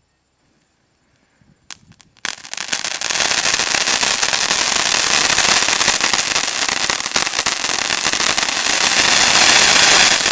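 Elephant-brand 'Angry Bird' fountain firework going off: a single sharp crack, then about two seconds in it starts gushing with a loud, steady hiss thick with crackling that keeps going for about eight seconds.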